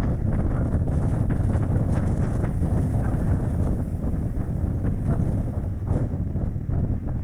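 Strong gusting wind buffeting the action camera's microphone on a moving Chevrolet Spark light car, over the car's tyre and road noise. The noise is loud and deep and rises and falls unevenly with the gusts.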